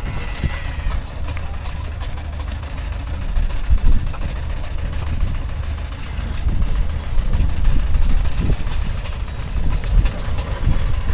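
Steam engines running in a show-arena parade: a steady low rumble with irregular low knocks.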